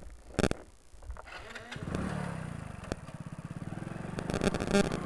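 A few sharp clicks, then a motorcycle engine starts about a second and a half in and runs with a steady low beat, with a burst of clicking and rattling near the end.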